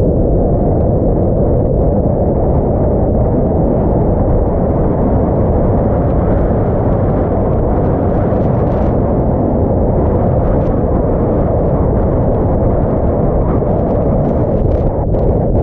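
Loud, steady wind blasting the camera microphone, a continuous low rumbling roar that drowns out everything else.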